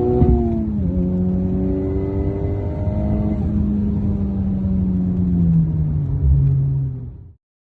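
Honda Civic Type R's turbocharged four-cylinder engine and titanium cat-back exhaust heard from inside the cabin while driving. The engine note climbs, dips sharply about a second in, climbs again, then slowly falls, and the sound cuts off suddenly near the end.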